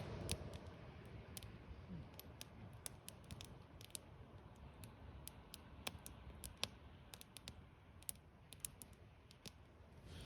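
Small campfire crackling faintly: scattered sharp pops at irregular intervals over a low steady rush.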